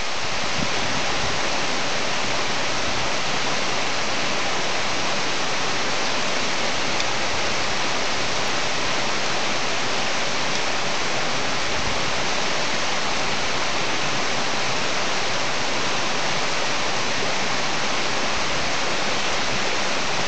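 Small mountain waterfall rushing and splashing, a steady, even roar of falling water.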